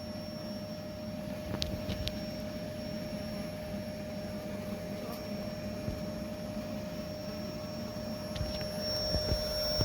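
Bee vacuum running at low suction with a steady whir and a constant whine, drawing bees out of a wall cavity.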